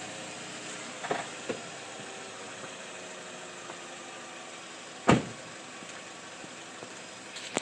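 Chevy Sonic engine idling steadily, with a couple of light clicks and one sharp, loud knock about five seconds in.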